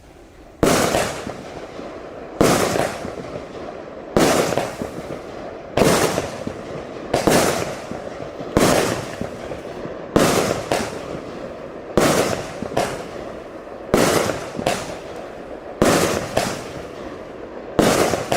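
Wolff Feuerwerk 'Renegade' 105-shot firework battery firing: sharp shots about every one and a half to two seconds, now and then two in quick succession, each dying away over about a second.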